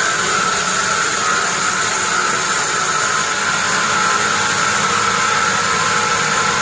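Sawmill bandsaw running steadily, an even mechanical noise with a constant whine and a high hiss that holds at the same level throughout.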